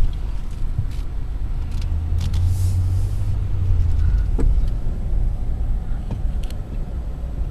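Car driving along a road, heard from inside the cabin: a steady low engine and tyre rumble that swells for a couple of seconds, with a few light clicks and rattles.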